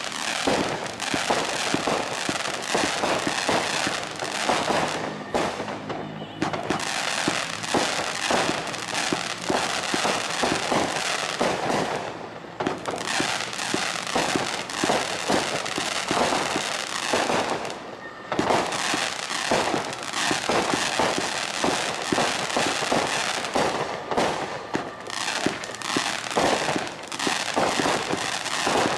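Fisherman Fireworks 'My Crazy Family' (FP6029D) firework going off: a dense, continuous crackling and popping of many small reports, with short lulls about every six seconds.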